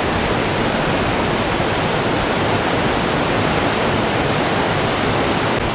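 Steady, unbroken rush of whitewater pouring over a two-step river rapid.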